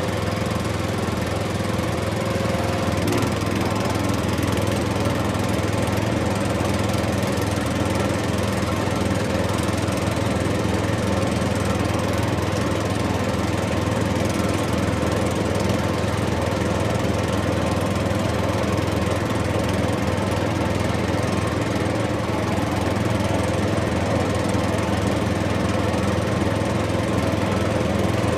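A small engine running steadily at a constant speed, with an even hum that does not change.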